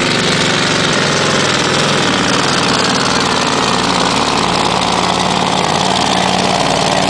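Scania V8 diesel truck engine running hard under full load while pulling the weight sled, loud and steady. From about halfway through, its pitch slowly sinks as the revs drop.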